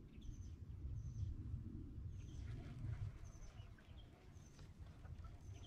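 Faint outdoor ambience: a small bird chirping short high notes every second or so over a low, steady rumble.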